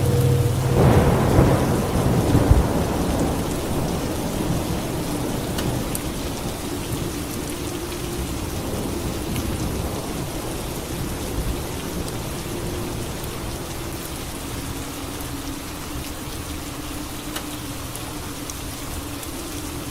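Steady rain with a thunderclap about a second in that rumbles on for a couple of seconds before fading back into the rain.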